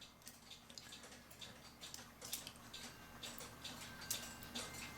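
Faint, irregular light metallic clicks and taps of small clock parts being handled as the hammer is fitted into a cuckoo clock movement.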